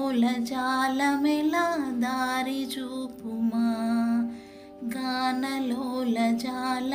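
Telugu devotional aarti song: a sung melody over a steady drone, breaking off briefly about four and a half seconds in.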